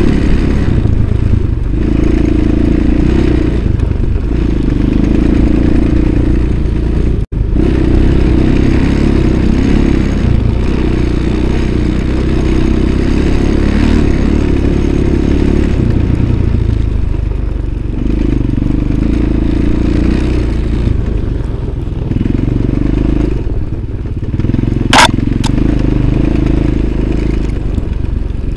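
Motorcycle engine running, its revs rising and falling in surges every couple of seconds, with clattering, and a brief high squeak about 25 seconds in.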